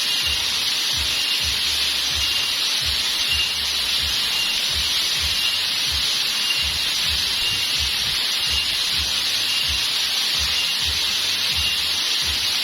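Steady rushing of waterfall and stream water. A faint chirp repeats about three times every two seconds over it.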